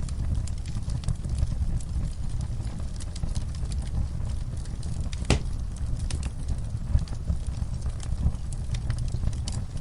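Wood fire burning in a fireplace: a steady low rumble of flames with scattered light crackles and one sharper pop about five seconds in.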